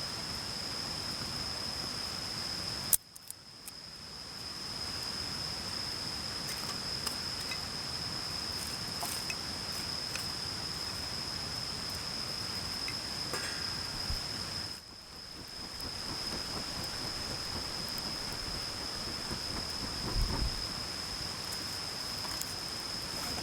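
Steady rushing of a mountain stream, with a constant high-pitched insect note held over it. The sound drops out briefly twice, and there are a few faint ticks and a low thump about twenty seconds in.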